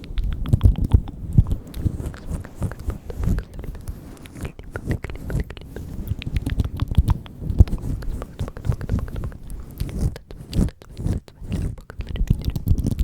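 Close-microphone ASMR mouth sounds: many quick wet clicks and smacks of lips and tongue, coming irregularly throughout.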